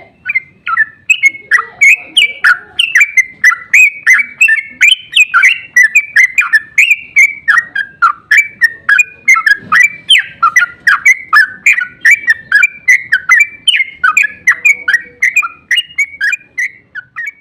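Yellow-vented bulbul (trucuk) singing a long rapid song ('ropel'), loud sweeping notes at about four a second with no pause, cutting off near the end.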